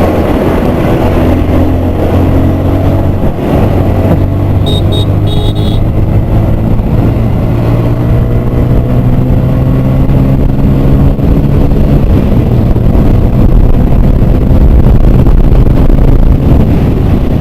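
Hero Super Splendor BS6's 125 cc single-cylinder four-stroke engine running under way as the motorcycle is ridden, its note climbing slowly as the bike gathers speed. The engine sounds refined and smooth.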